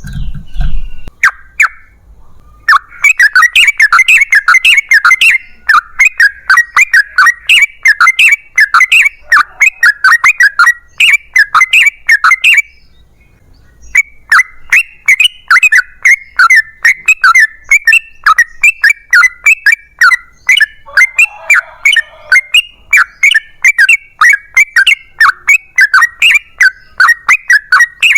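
Yellow-vented bulbul singing a long, fast run of chattering notes, several a second, loud and close, with a pause of about a second midway.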